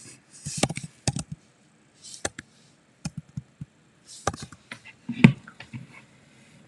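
A metal spatula knocking and chopping on a flat-top griddle: irregular sharp clacks, with short bursts of hiss in between. The loudest clack comes about five seconds in.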